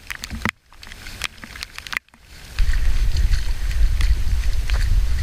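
Outdoor noise with scattered light ticks, broken twice by brief dropouts, then a loud low rumble of wind buffeting the microphone from about halfway through.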